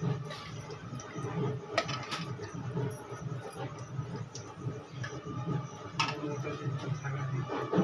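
A few sharp clinks of a utensil against a metal kadhai, about three in all, over a steady low background hum, as oil is taken out of the pan.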